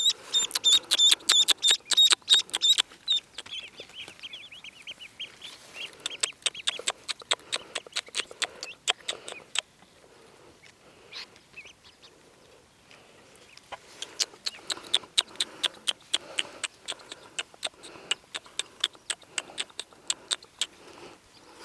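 Many newly hatched ducklings peeping in rapid, high-pitched chirps. The peeping thins out to a few calls about halfway through, then picks up again.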